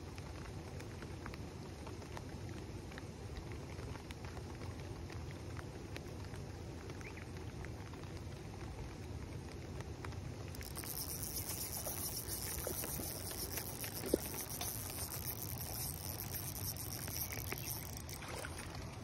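Steady rain pattering on the pond water, over a low rumble. About halfway through a high hiss joins in, and there is one sharp click near the end.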